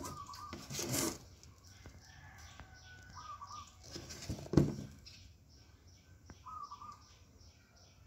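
Birds calling in the background: a rapid, regular high chirping with a short call repeating every three seconds or so. Two louder brief noises break in, about a second in and about halfway through.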